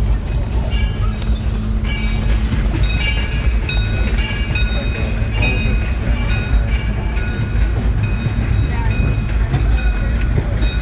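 Steady rumble and rattle of a narrow-gauge steam train's passenger car rolling along the track, heard on board, with short high clinks recurring throughout. A high hiss fades out about two seconds in.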